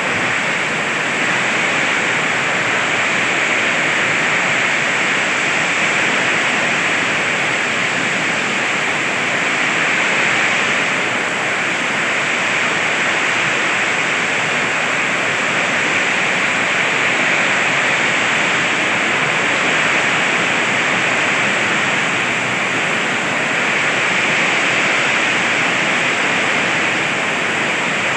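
Heavy rain falling steadily in strong wind: a loud, dense hiss that swells slightly now and then.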